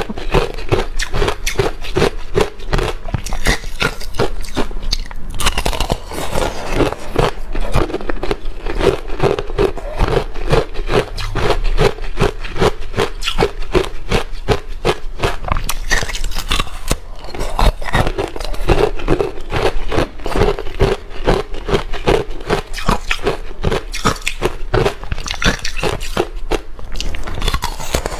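Ice being chewed close to the microphone: continuous crunching, several crunches a second.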